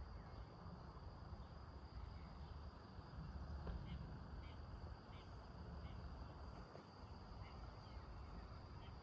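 Faint outdoor ambience of insects trilling in one steady high tone, with short high chirps repeating every half second or so, over a low rumble.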